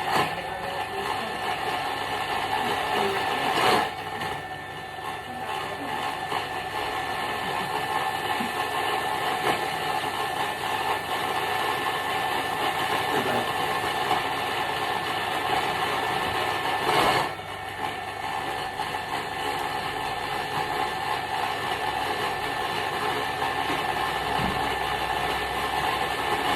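Thermomix motor blending a thick, fairly dry chicken stock paste at speed 7, a steady loud whirring with a couple of brief louder knocks.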